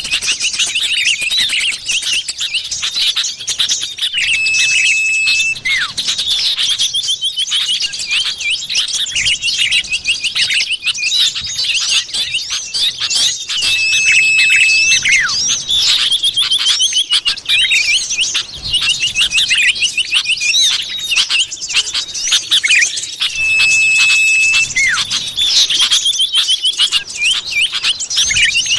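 Common iora (cipoh) calls on a bird-lure recording: dense, rapid chirping and trills, broken about every nine to ten seconds by a long, level whistle.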